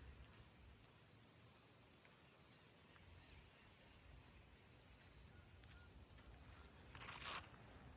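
Near silence outdoors: faint, steady high-pitched insect chirping, with a brief rustling noise about seven seconds in.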